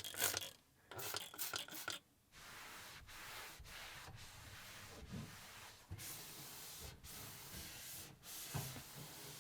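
Pen scratching across paper in long, even strokes, with brief pauses between them.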